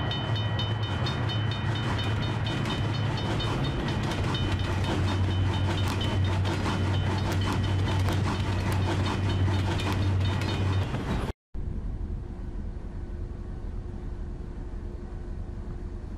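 Train sound effect: a train passing with a low rumble and rapid clickety-clack of wheels over rail joints, with high ringing tones near the start. About eleven seconds in it cuts off abruptly, and a quieter steady outdoor background follows.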